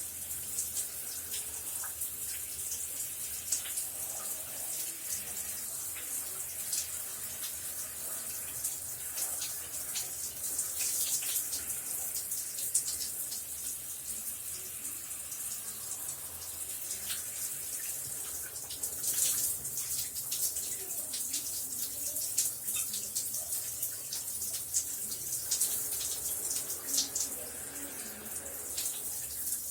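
Shower running: a steady hiss of water spray with close spattering and crackle as it hits the floor or tub.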